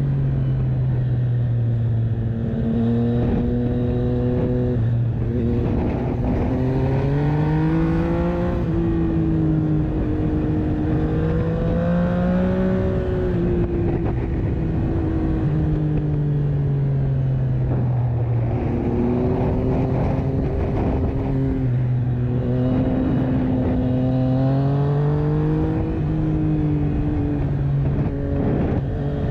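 Yamaha MT-09 three-cylinder engine through an Akrapovic exhaust under riding load. It pulls up through the gears in stepped rises with a drop in pitch at each shift, falls away as the throttle is eased off in the middle, then accelerates up through the gears again.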